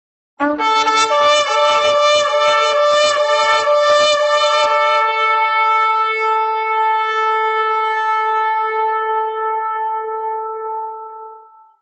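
Shofar blown in one long blast: it opens on a short lower note that jumps up to the main pitch, sounds rough and buzzy for the first few seconds, then holds a steady tone and fades out near the end.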